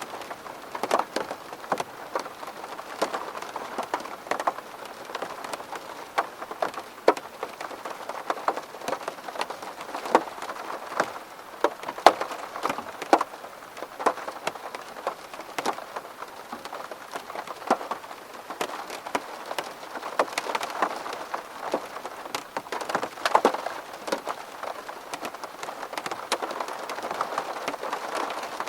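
Steady rain striking a window pane: a continuous hiss with many separate, sharp drop hits scattered throughout.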